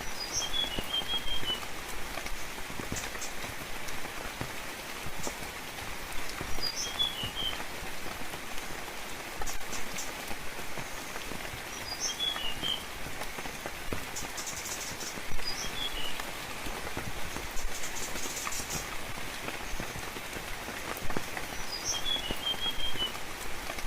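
Steady gentle rain falling on foliage, with individual drops pattering. A bird repeats the same short song about every five to six seconds: a high note followed by a quick run of four to six lower notes.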